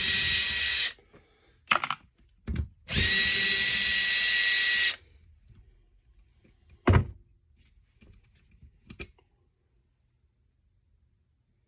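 Power drill spinning a 10 mm socket to back bolts out of a small engine's case: one run that stops about a second in, and a second two-second run starting about three seconds in, with a couple of clicks between. A single loud knock follows a couple of seconds later, then a few faint clicks.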